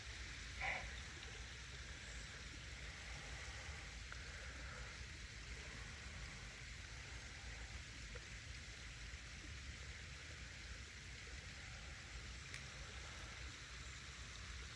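Faint, steady hiss of running or dripping water, with one brief soft sound under a second in.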